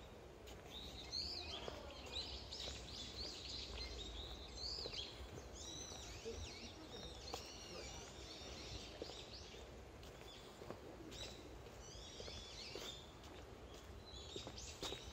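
Small birds chirping again and again in short, high, up-and-down calls over a low, steady rumble.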